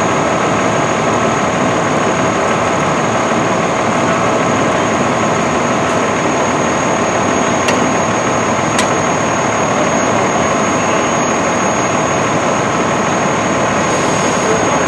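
Fire engine's diesel engine running steadily, with no siren sounding. Two short clicks come about eight and nine seconds in.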